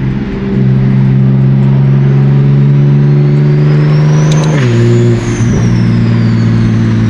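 Single-turbo BMW M3 CS inline-six running loud at steady revs, dropping to lower revs about four and a half seconds in. Over it, the turbo whistle rises to a high peak and then falls away.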